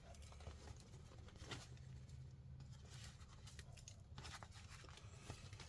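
Faint rustling and scattered small clicks of hands pulling packed dust and dog hair out of a Roomba's self-emptying base, over a low room hum.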